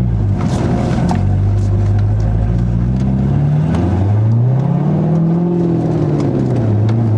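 Chevrolet Corvette C5's 5.7-litre V8 running at low speed. Its note holds steady, then rises and falls twice as it pulls and eases off, with a few short knocks from the car.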